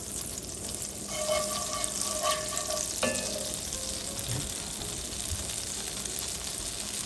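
Oil and melting butter sizzling steadily in a hot braiser, with a single click about three seconds in.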